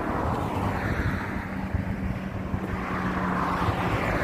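Highway traffic passing, tyre and engine noise swelling as vehicles go by, once near the start and again about three seconds in, over a steady low hum.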